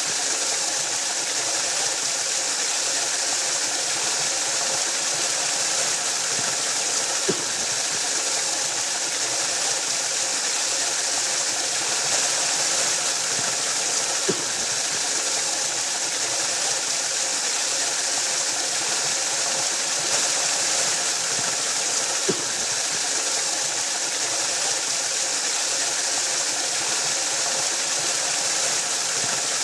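Waterfall, water falling and rushing in a steady, unbroken hiss. A faint short click comes about every seven to eight seconds.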